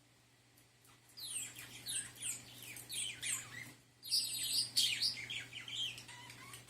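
Budgerigar warbling. A fast run of short, falling chirps starts about a second in, breaks off briefly, then comes back louder with harsh, scratchy notes mixed into the chirping.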